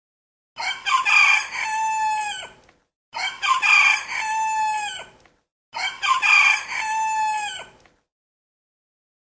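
Rooster crowing cock-a-doodle-doo three times, each crow about two seconds long, the calls identical and evenly spaced with silence between them.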